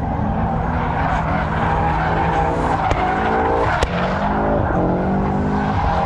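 Cars drifting: engines revving hard, rising in pitch again and again, over tyres skidding and squealing. Two sharp snaps stand out about three and four seconds in.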